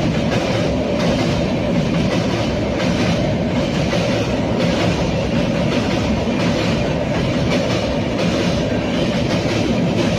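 Moving train running on the rails: a steady heavy rumble with a regular clickety-clack of wheels passing over rail joints.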